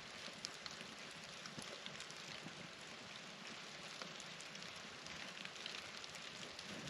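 Light rain beginning to sprinkle: a faint steady hiss with many small scattered drop ticks.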